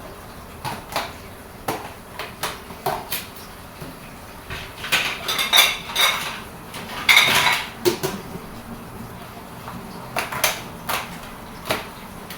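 Dishes and cutlery clinking and clattering: scattered knocks, with a busier run of clatter in the middle.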